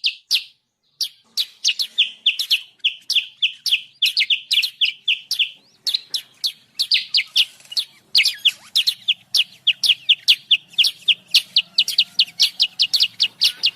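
Kutilang sutra (a bulbul) lure call: a noisy, rapid string of sharp chirps that slur downward, several a second, with one short pause about a second in.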